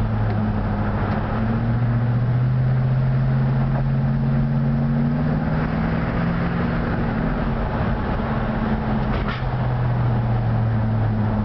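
Oldsmobile 455 Rocket V8 in a 1968 Olds 442 cruising, heard from inside the cabin: a steady low engine drone with road noise. Its pitch rises a little about halfway through, then settles back.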